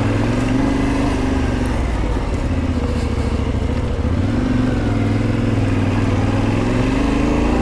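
Adventure motorcycle engine running at trail speed, its pitch rising and falling gently as the throttle is eased on and off.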